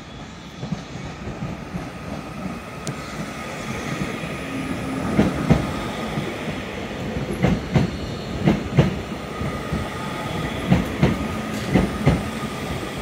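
Northern Class 331 electric multiple unit arriving slowly alongside the platform. Its wheels clack over rail joints in pairs, one bogie at a time, over a steady rumble and a thin steady whine.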